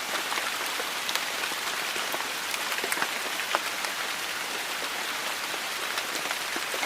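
Steady monsoon rain: a dense hiss of falling rain with frequent sharp drip and splash ticks of individual drops.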